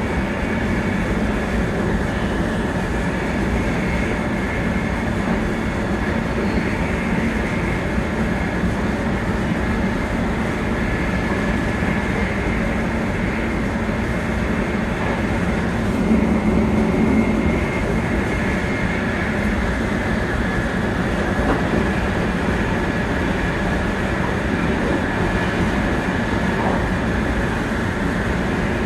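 Interior running noise of a 700 series Shinkansen at speed: a steady rumble with a faint high steady whine over it, swelling louder briefly a little past halfway through.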